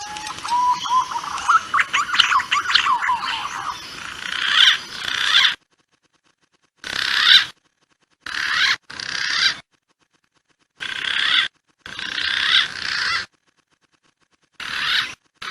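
Green pigeon (punai) calls used as a hunting lure: rising whistled notes at the start, then a dense run of quick whistles about two seconds in. After that come short bursts of calling about a second long, each broken off by complete silence, as in an edited, looped recording.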